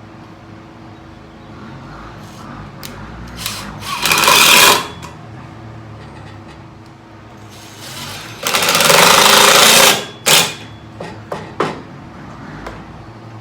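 Table saw running steadily, its blade biting loudly into a rough-sawn hardwood board twice, briefly about four seconds in and for longer about eight and a half seconds in. A few short sharp bursts follow as the board is fed and cleared.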